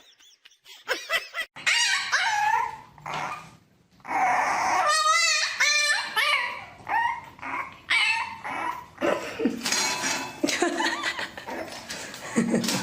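A dog vocalizing in a series of pitched calls whose pitch bends and wavers, with short pauses between them.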